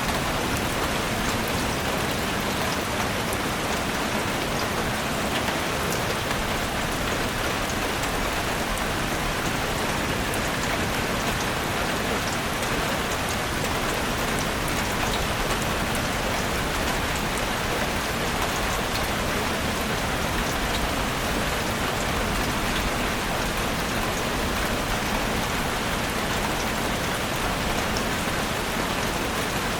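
Steady, heavy rain falling in a forest: an even hiss of rainfall with scattered individual drop ticks.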